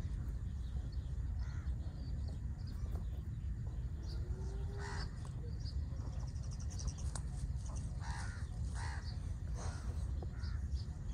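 Birds calling: several short calls from the middle on, two of them close together, and a quick high trill in the middle. A steady low rumble runs underneath.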